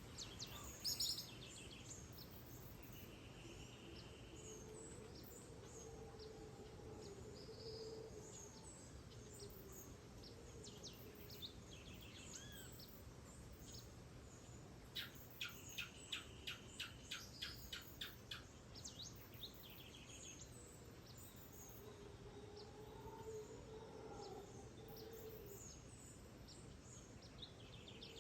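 Tropical rainforest birds calling softly at dawn: many short chirps and whistles overlap. Midway, one bird gives a loud, rapid run of about a dozen sharp notes, slowing slightly over about three seconds.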